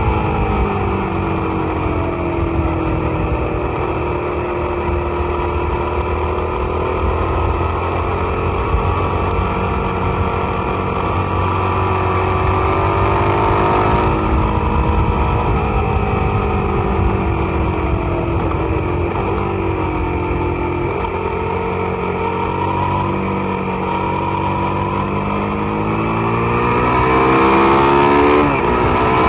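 Suzuki SV650's 90-degree V-twin engine pulling hard on track, its pitch falling and rising again and again as it slows for corners and accelerates out. Near the end it climbs to its highest and loudest with wind rushing over the microphone, then drops sharply.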